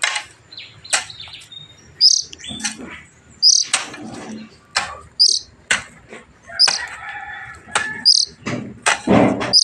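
Oriental magpie-robin chick giving short, high chirps over and over, about once a second, with knocks and rustling in between.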